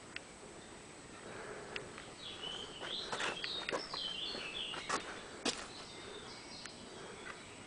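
A small bird singing a short, wavering high-pitched phrase from about two seconds in, with a few sharp clicks scattered through the middle, over a faint steady outdoor hiss.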